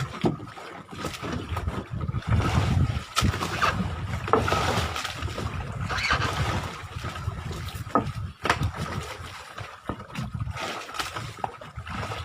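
Water splashing and sloshing beside a fishing boat, with a few sharp knocks, the clearest about three seconds in and again about eight and a half seconds in.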